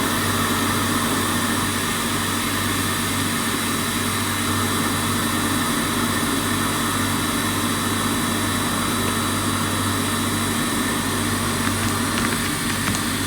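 Hot air rework station blowing steadily, an even fan-and-air hum with hiss that does not change.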